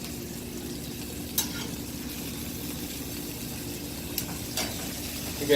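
Flat iron steak sizzling in olive oil in a hot cast iron skillet, a steady frying hiss. A few light taps come through it, about a second and a half in and again near the end.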